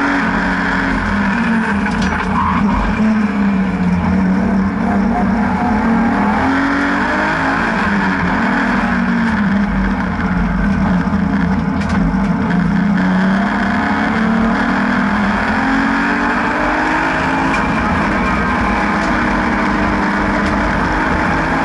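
BMW N52B30 3.0-litre naturally aspirated straight-six in an E36 track car, driven hard on a circuit: the engine note climbs and falls several times as it accelerates, comes off the throttle and picks up again, over steady road and wind noise.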